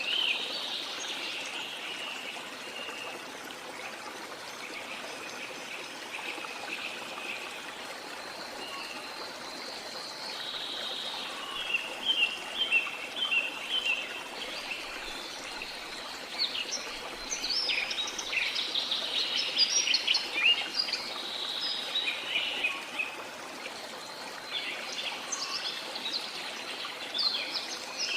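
Steadily running water from a waterfall or stream, with many birds chirping and trilling over it; the bird calls come thickest about halfway through and again near the end.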